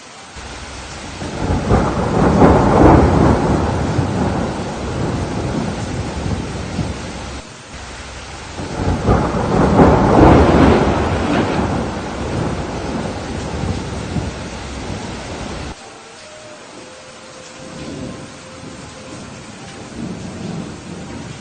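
Steady rain with rolling thunder: two long, loud rumbles, the first building about a second in and the second peaking about halfway through, each cutting off suddenly. Fainter rumbles follow near the end.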